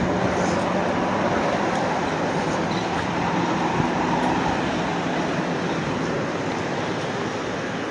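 Steady rumble and hiss of a running vehicle, with a low hum underneath and no distinct knocks or changes.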